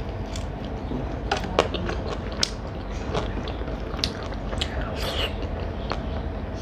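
A person eating, close to the microphone: chewing and mouth sounds with scattered sharp clicks and crackles, a few of them louder. A steady low hum runs underneath.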